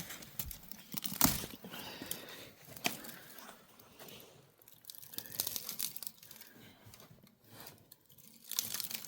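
Irregular rustling, crinkling and crunching handling noises with a few sharp clicks.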